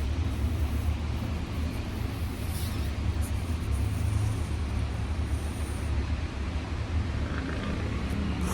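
A steady low rumble, with a few faint clicks partway through.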